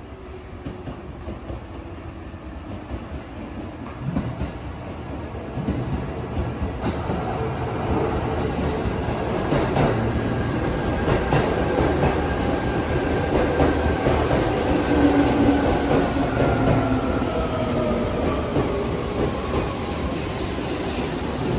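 Seibu 2000 series eight-car electric train pulling in along the platform and braking to a stop. The rumble and clatter of wheels over the rail joints grow louder as it comes in, with a whine that slowly falls in pitch as the train slows.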